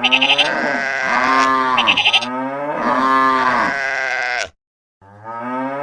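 Bleating animal calls: two long cries, each rising and then falling in pitch. They cut off about four and a half seconds in, and another begins near the end.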